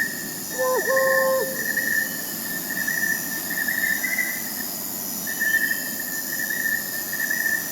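Crickets chirring steadily, with a higher continuous insect trill above them; the chirring pauses briefly just after the middle. About a second in, an owl gives a short two-note call.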